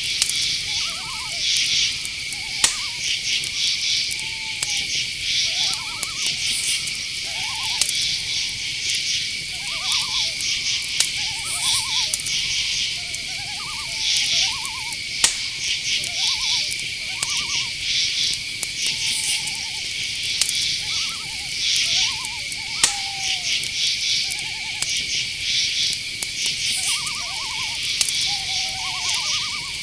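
Night insect chorus: a steady high drone with regular pulsed cricket chirps above it. Many short, bending animal calls come about once a second, with a few sharp clicks now and then.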